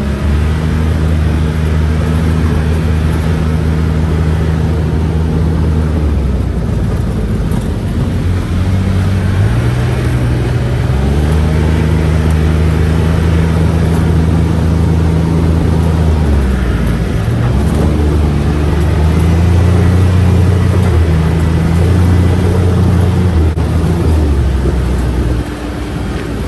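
Side-by-side UTV engine running under way, holding a steady pitch for several seconds at a time, then dropping as it slows and climbing again as it speeds up, over a steady rumble of rolling noise.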